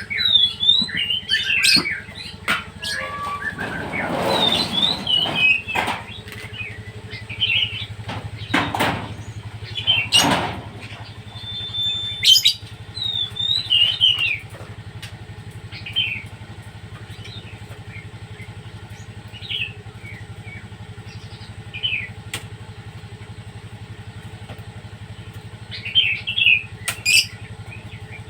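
Pet songbirds chirping in short, repeated calls, busy at first, then sparser, then a quick flurry near the end. A steady low hum runs underneath, and two brief rushing noises swell up about four and nine seconds in.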